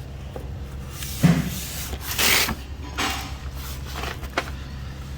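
A few knocks, scrapes and a sharp click of something being handled, over a steady low hum.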